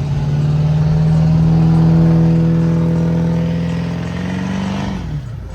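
A vehicle engine held at steady high revs, swelling louder and then fading, its pitch rising a little before it drops off near the end.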